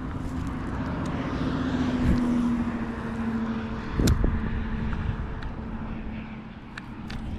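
A passing engine's steady drone, slowly growing louder and then easing off, with a sharp click about four seconds in.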